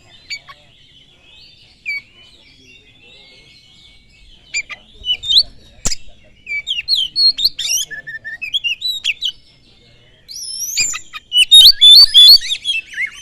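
Oriental magpie-robin (kacer) singing varied whistles, chirps and scratchy notes: sparse and faint at first, then more frequent, and a loud, rapid run of song near the end. A single sharp click comes about halfway through.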